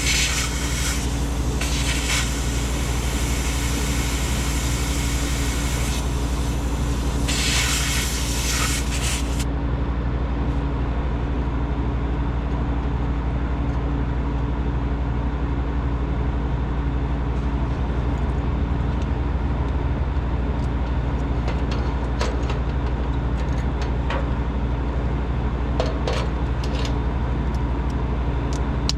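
Refrigeration equipment motor running with a steady hum. A hiss stops about nine seconds in, and light ticks and clicks come in the later part.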